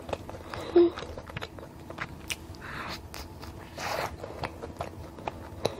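Close-miked chewing of a soft, sugar-dusted custard-cream donut: many small wet mouth clicks and smacks, with a brief hum about a second in.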